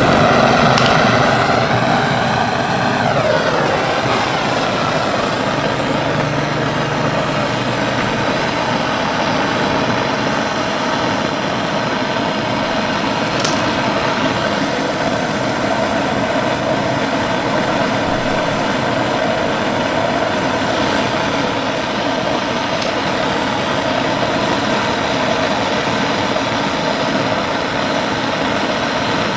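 Steady mechanical running sound, like a motor or engine, with a falling whine in the first few seconds.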